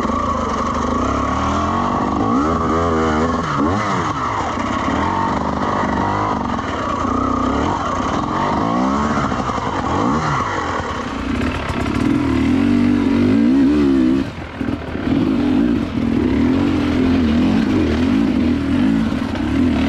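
Dirt bike engine revving hard as it climbs a slippery trail hill, the pitch rising and falling repeatedly as the throttle is worked. There is a brief dip when the throttle is rolled off about two-thirds of the way through.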